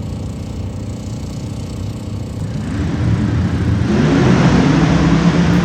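Drag race cars running down the strip, their engines growing steadily louder from about halfway through as they near the finish line.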